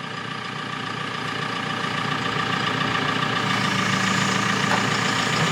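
Engine of the lifting machine running as its control lever is worked, growing gradually louder, with a steady low hum joining about halfway through.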